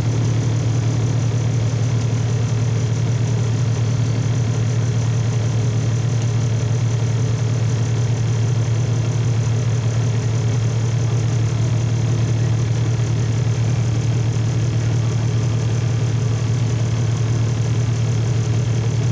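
Semi truck's diesel engine running steadily through a parked exhaust-filter regeneration, with its cooling fan on: an even, loud drone with a strong low hum. It is heard from inside the cab.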